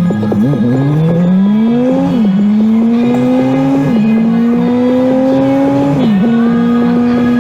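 Honda S2000's four-cylinder engine accelerating hard through the gears. The engine note climbs and drops sharply at three upshifts, about two, four and six seconds in, then holds steady near the end.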